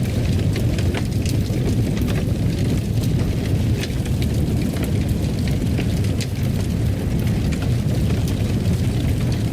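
Wood fire burning in a fireplace: a steady low roar with many small, irregular crackles and pops.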